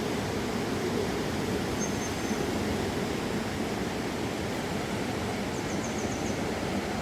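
Steady rushing of a mountain river, an even wash of water noise. Faint high chirps cut through it once about two seconds in and as a quick run of five near the end.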